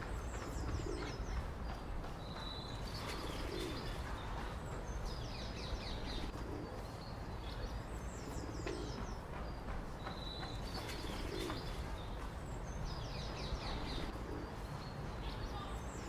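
A pigeon cooing softly and repeatedly, while a small songbird sings the same short high phrase every few seconds, over a steady low rumble.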